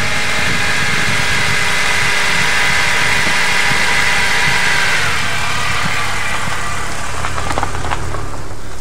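Car engine idling close by, its tone changing about five seconds in as the car moves off, with a few light clicks near the end.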